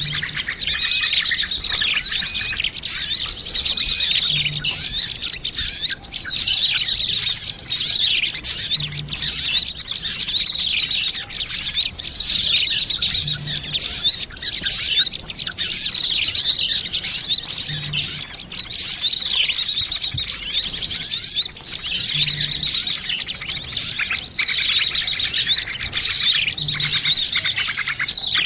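Dense chorus of many small songbirds chirping and twittering at once, the busy flock sound of a bird-lure (pikat) recording meant to draw small birds in. A faint low pulse repeats about every four and a half seconds.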